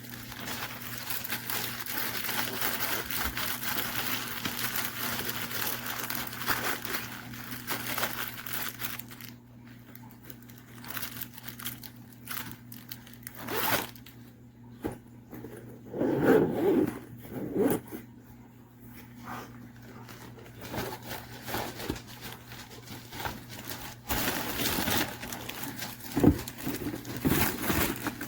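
Handling of packaging and the kit's storage case: rustling and scraping for the first several seconds, then scattered clicks and knocks as parts are moved, with more rustling near the end. A faint steady hum runs underneath.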